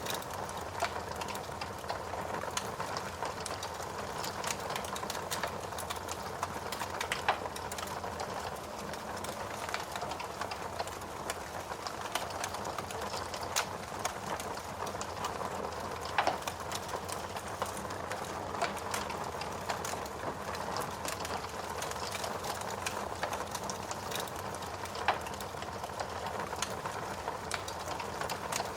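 Logs burning in a fireplace: a steady hiss with dense crackling and a few louder pops scattered through.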